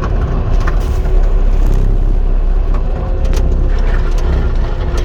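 Cat 259 compact track loader's diesel engine running steadily while working, with several sharp metallic clanks and knocks from the machine.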